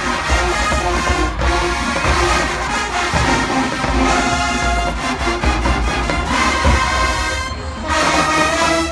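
Marching band playing loudly: a large brass section holding sustained chords over a heavy bass drum beat.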